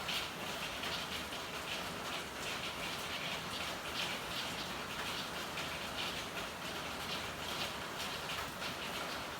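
Steady rain with a dense, irregular patter of drops.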